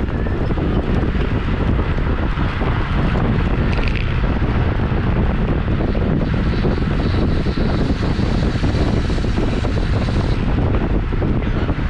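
Heavy wind noise buffeting the microphone of a camera mounted on a road bike racing at speed, a steady rush strongest in the lows.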